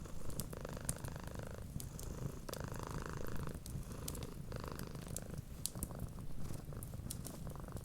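A cat purring steadily in a low, pulsing rumble that swells with each breath, about every second or two. Over it, a wood fire crackles with frequent sharp pops.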